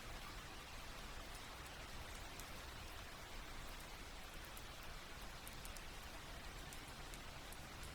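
Soft, steady rain falling, with small drops pattering on a surface.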